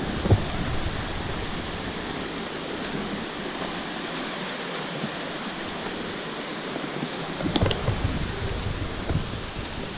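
Waterfall rushing steadily. A few short knocks come through about seven and a half seconds in.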